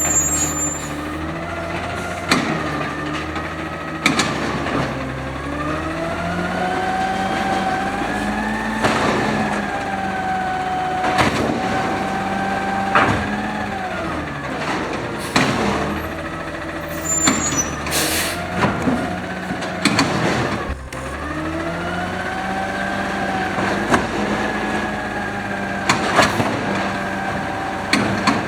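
Automated side loader garbage truck at work: the engine revs up and down as it drives the hydraulics, with repeated sharp metal bangs from the arm and packer. Brief air-brake hisses near the start and in the middle.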